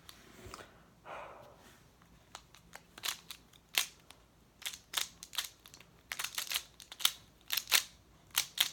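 Moyu magnetic Skewb being turned fast in a speedsolve: a quick, irregular run of sharp plastic clicks and clacks starting about two seconds in, after a soft rustle.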